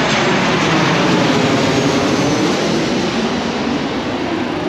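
Loud, steady rush of engine noise that eases off slightly near the end.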